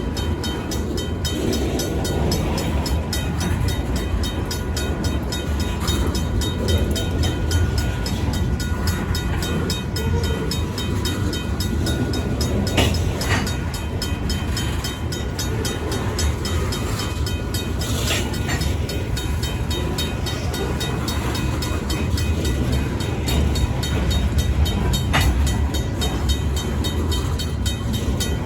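Freight train cars rolling over a grade crossing with a steady low rumble and a few brief metallic clanks and squeals. Over it, a RACO mechanical crossing bell rings in a fast, even beat.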